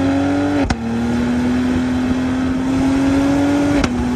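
Cadillac CT5-V's 3-litre twin-turbocharged V6 pulling under hard acceleration, its note climbing slowly through each gear. Two lightning-fast upshifts, about a second in and near the end, each drop the pitch at once with a sharp crack.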